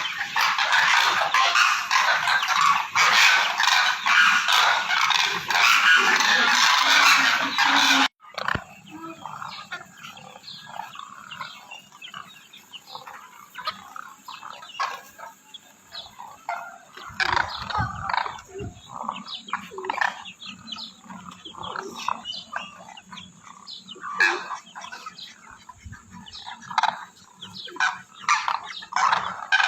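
A flock of cranes calling: many loud overlapping calls, then after an abrupt cut about eight seconds in, scattered quieter separate calls.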